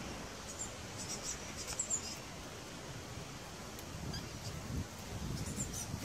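A hungry bird's short high-pitched cheeps, in a cluster about a second in and again near the end, over a steady background hiss.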